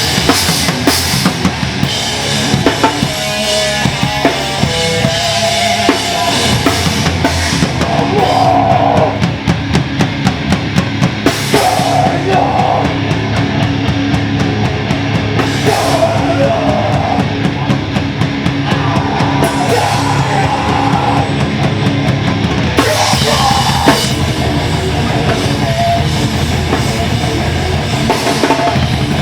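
Loud heavy rock music: distorted guitars over a pounding drum kit, with a run of fast, even drum hits about a third of the way through.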